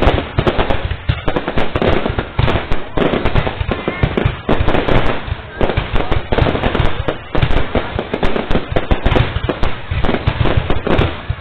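Fireworks going off in a rapid, continuous barrage of bangs and crackling.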